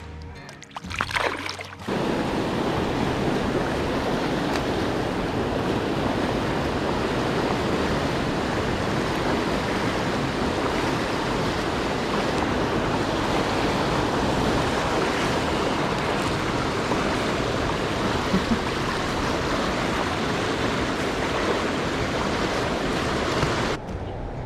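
Steady rush of flowing creek water with no tones in it, starting suddenly about two seconds in and cutting off just before the end.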